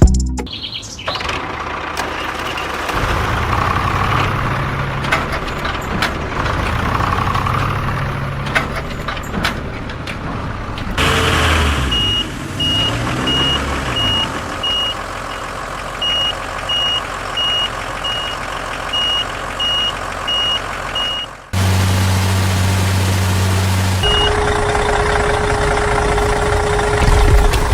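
Construction machinery running, with a vehicle reversing alarm giving evenly spaced high beeps for about ten seconds in the middle.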